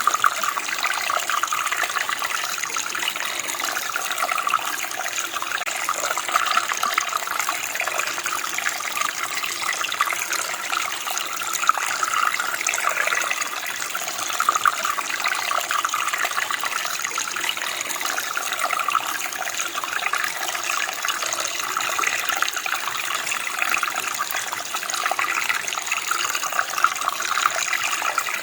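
Running water, a steady flow of a stream or creek with a continuous splashing rush.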